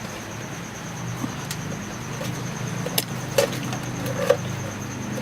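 A few sharp clicks and knocks of hard plastic and metal computer parts being handled and pulled loose while a desktop system unit is taken apart, over a steady low hum.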